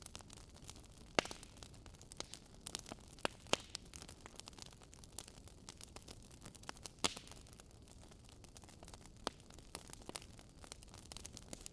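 Wood campfire crackling: a steady hiss of flames with irregular sharp pops and snaps, a few of them louder.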